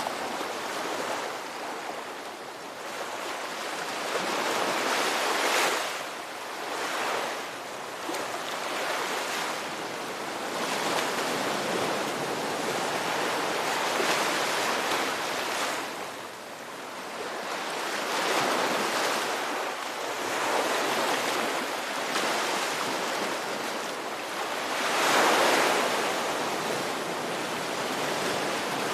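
Ocean waves washing onto a shore in a continuous rush, swelling and easing every few seconds, with one louder wave near the end.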